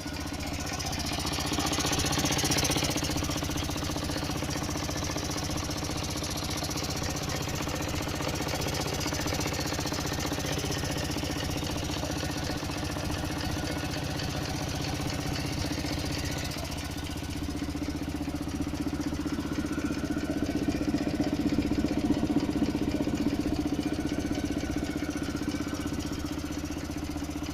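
Water-cooled 700 cc conversion of a Ural 8.107 flat-twin motorcycle engine idling steadily. It is fitted with a BMW oil separator in place of the stock breather. The engine gets a little louder about two seconds in, and again for a few seconds in the last third.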